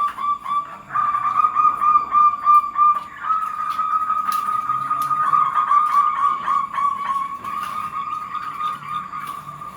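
Zebra doves (perkutut) cooing: an almost unbroken run of rapid rolling notes held at one pitch, the call meant to set other perkutut answering.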